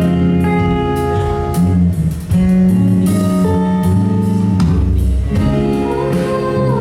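Live band music led by plucked guitar, an instrumental passage with no singing, held notes over light drum hits.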